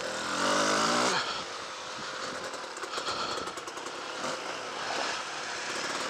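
Honda CRM 250 two-stroke single-cylinder trail bike engine, heard from the rider's seat: it revs up briefly about half a second in, then runs on at a lower, uneven throttle.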